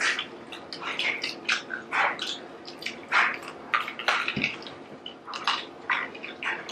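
Several people biting into and chewing garlic bread pizza with pepperoni and cheese close to the microphone: many short, irregular chewing and mouth sounds.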